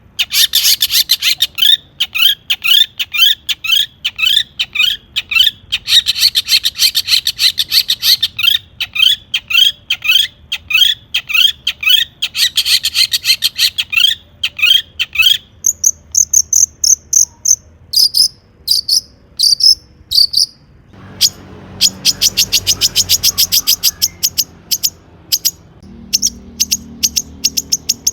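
Long-tailed shrike singing energetically: a fast, unbroken run of short, sharp repeated notes, several a second, turning to higher, thinner notes past the middle.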